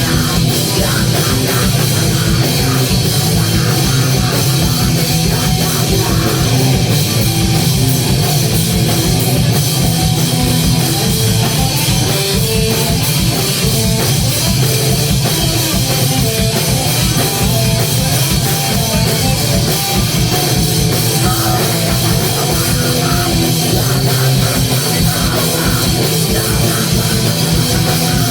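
Live rock band playing loud and steady, with guitar and a drum kit.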